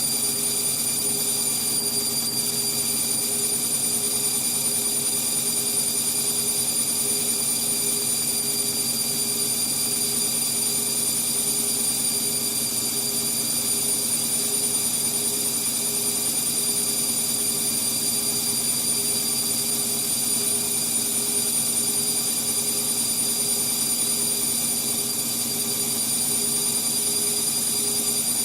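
Indesit MTWC71252WUK washing machine spinning at a steady speed, a constant motor whine over the rush of the drum. The spin is held below the machine's full 1200 rpm, cut back by its balance function because of an unbalanced load.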